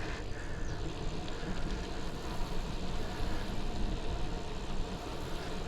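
Steady wind and road noise from riding a bicycle, with wind buffeting a chest-mounted action camera's microphone.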